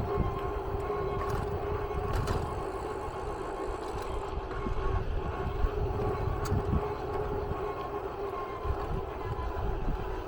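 A vehicle running: a steady drone holding one constant tone over a low rumble, with a few faint clicks.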